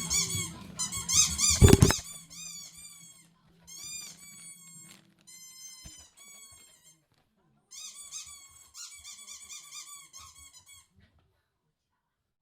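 Bernese mountain dog puppy whining and squealing in runs of short, high-pitched squeaks that rise and fall, coming in several bursts with short pauses and stopping about a second before the end.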